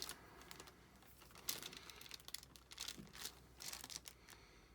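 Faint scattered crinkles and light taps of diamond painting work: resin drills being picked up and pressed onto the sticky canvas and its plastic cover film.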